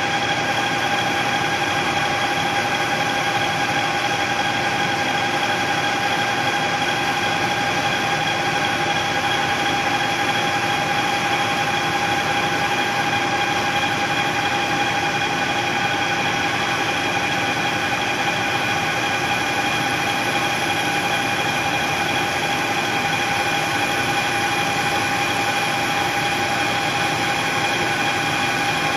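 Metalworking machine tool running steadily while machining a billet shift knob, with a constant whine that holds one pitch throughout.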